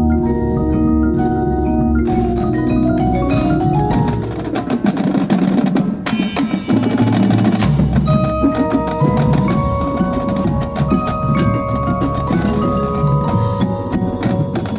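Percussion ensemble playing, with marimbas and other mallet keyboards ringing out sustained notes over a low bass. Drums and other struck percussion join in, and there is a dense, busy passage of hits from about four to eight seconds in.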